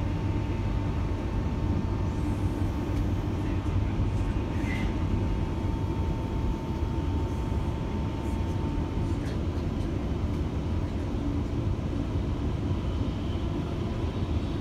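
Steady running rumble of a Queensland Rail electric suburban train heard from inside the carriage, with a faint steady high tone that stops about nine seconds in.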